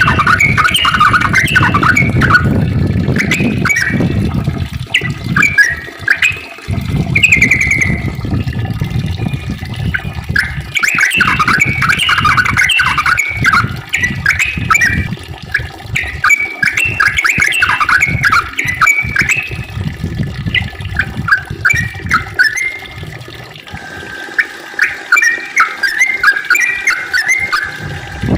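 Yellow-vented bulbul (trucukan) singing long runs of rapid, chattering, rising-and-falling notes, broken by short pauses. A low rumbling noise runs underneath and fades out about two-thirds of the way through.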